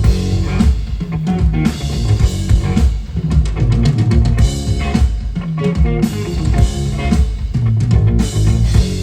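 Live rock band playing: electric guitars, bass and drum kit, with steady drum hits and thick, loud bass.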